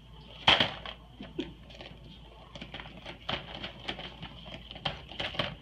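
A plastic container with a lid knocking and scraping against a wooden cabinet door and floor as a cat pushes it from inside the cabinet: irregular clicks and knocks, the loudest about half a second in.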